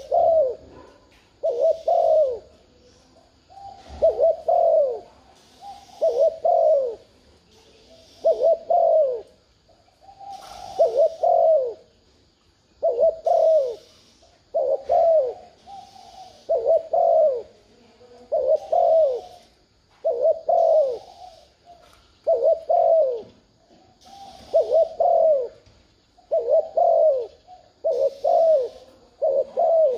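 Spotted dove cooing, a short phrase of two or three falling coo notes repeated about every two seconds. This is the rapid excited coo used as a lure call to draw in wild doves.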